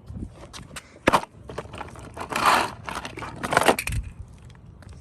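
Irregular crunching and scraping with scattered sharp clicks, and two louder crunches about two and a half and four seconds in.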